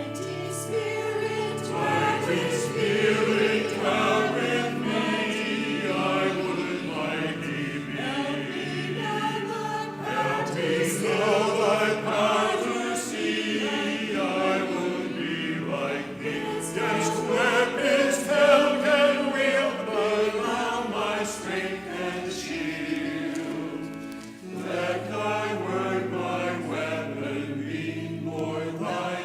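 Choir singing a sacred piece with sustained organ-like accompaniment. There is a brief break about 24 seconds in before the next phrase begins.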